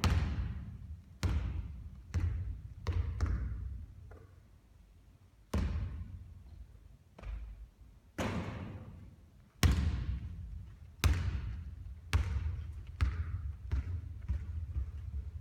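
A basketball bouncing on a hard court, a dozen or so separate thuds at uneven gaps. Near the end, a run of quicker, shrinking bounces as a ball settles.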